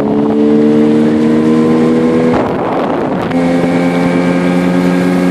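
Nissan Marine 9.8 hp outboard motor running at high throttle during its break-in, the pitch creeping slightly higher as the boat picks up speed. Past the halfway point a rush of wind or water noise briefly covers the engine, then its steady note returns.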